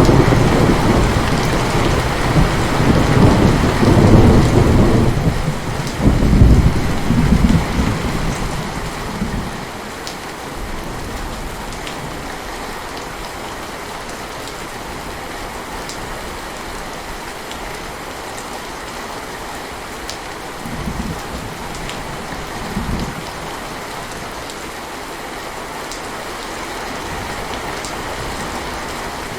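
Heavy, steady rain with thunder rumbling loudly through the first ten seconds or so, then fading to the rain alone, with two shorter rumbles later on.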